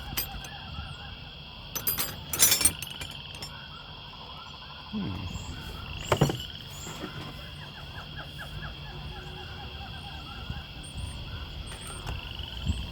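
Outdoor ambience of steady high insect-like droning and repeated small chirps, broken by a few sharp knocks or clicks about two seconds in and again near the middle.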